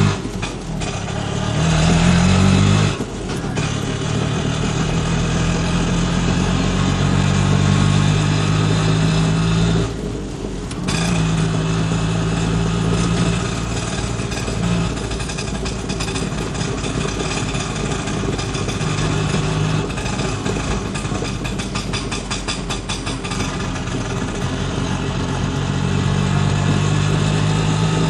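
A tractor-like engine running steadily, its pitch rising in a short rev about two seconds in and dipping briefly twice.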